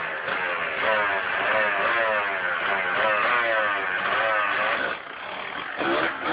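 Dirt bike engine revving hard as the bike accelerates away, its pitch climbing and dropping back several times as it runs up through the gears. The engine note falls away about five seconds in, followed by a brief clatter near the end.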